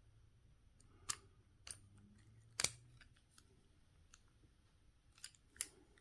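Scattered faint, sharp metal clicks, the loudest about two and a half seconds in, as a screwdriver works at the retaining ring on an ignition lock cylinder to pry it off.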